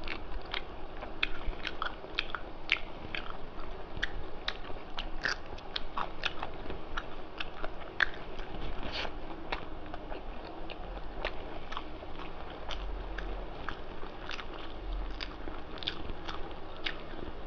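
A person eating close to the microphone: chewing a mouthful of rice and mutton curry with many short, sharp mouth clicks and crunches.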